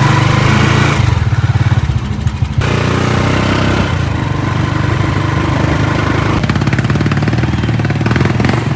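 Small motorcycle engine running close by: a loud, steady, rapid low putter.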